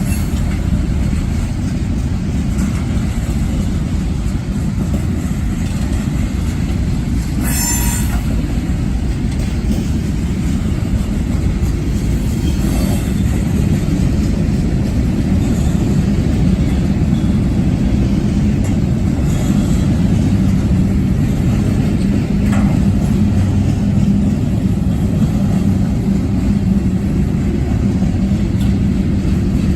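Freight train rolling past, a steady low rumble of railcars on the rails, with a brief high wheel squeal about eight seconds in.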